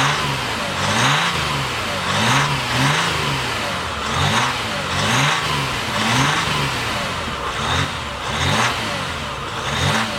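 2021 Ram 1500's 3.0-litre diesel V6 being revved over and over in quick blips, the engine note rising and falling in pitch every half-second or so.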